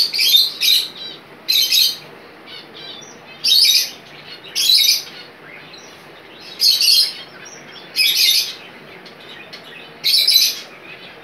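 A bird calling in short, loud bursts of high chirps, about eight of them, each under half a second and spaced one to two seconds apart, over a faint steady background hiss.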